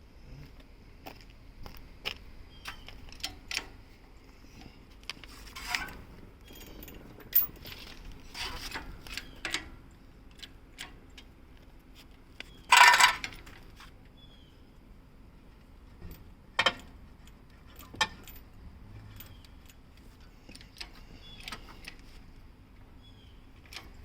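Scattered light metallic clinks and knocks from metal parts in a car's engine bay, with one louder clattering scrape about halfway through, over a faint steady hum.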